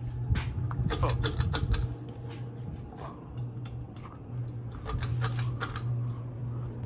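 Steady low electrical hum from a running ceiling fan motor, with many irregular sharp clicks and ticks over it.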